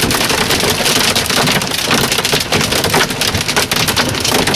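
Rain and hail pelting a truck's roof and windshield, heard from inside the cab: a dense, steady patter of many small impacts.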